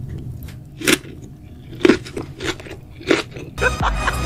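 Close-miked chewing of sliced raw fish wrapped around chili pepper: wet crunches and bites, loudest about a second in and again about two seconds in, then softer chewing. Near the end it cuts to background music and restaurant chatter.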